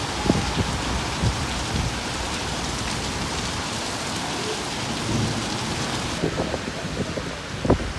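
Heavy rain falling steadily, a dense even hiss, with a few brief low thumps near the start and just before the end.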